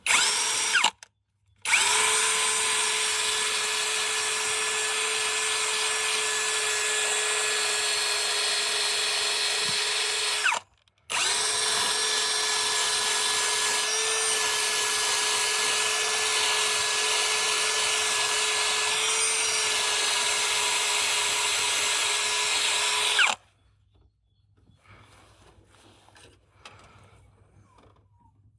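Electric drill running at a steady high speed with a constant whine: a brief burst, then two long runs of about nine and twelve seconds with a short stop between them. After the second run stops suddenly, only faint handling noises follow.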